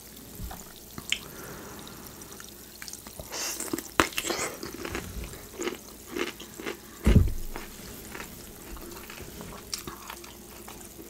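Close-miked eating: a sauce-dipped cucumber slice crunched and chewed, with wet chewing and lip-smacking clicks. One low thump comes about seven seconds in.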